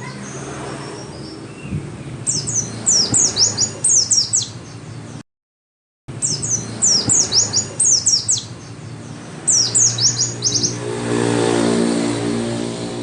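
White-eye (pleci) song: three bursts of fast, high twittering, each a string of quick falling notes, with a brief total dropout about five seconds in. A low drone sits underneath and swells near the end.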